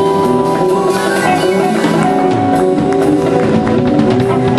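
Band playing a soul song: drum kit and percussion keep a steady beat under held keyboard chords and bass.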